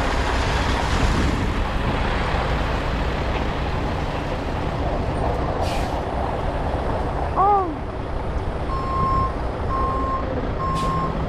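Heavy diesel equipment running steadily at a dig site, with a short air-brake hiss about six seconds in and again near the end. A reversing alarm starts beeping about nine seconds in, an even beep repeating a little under twice a second, and a brief rising-and-falling tone sounds just before it.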